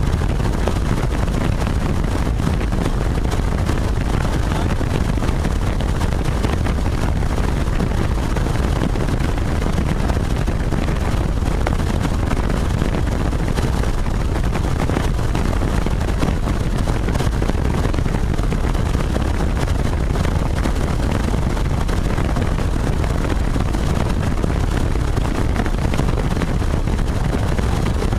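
Helicopter in flight: steady loud rotor and engine noise, heaviest in the low range, with a fast, even chop running through it.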